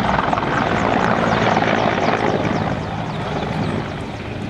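Mil Mi-24 Hind twin-engine attack helicopter flying a display, its rotor blades beating rapidly over the engine noise. It grows fainter over the last second or so as it moves away.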